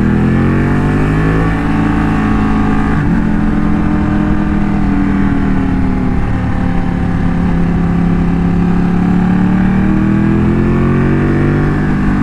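Motorcycle engine running under way. Its pitch climbs over the first second or so, holds fairly steady through the middle, and rises again near the end as the rider gets back on the throttle.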